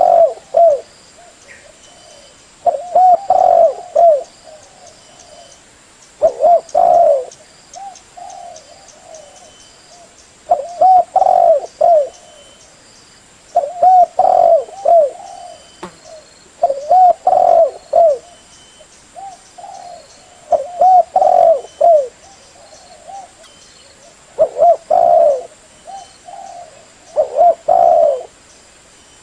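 Spotted dove (tekukur) cooing: a short phrase of several low, curved coos repeated about every three to four seconds, a call used as a lure for its own kind.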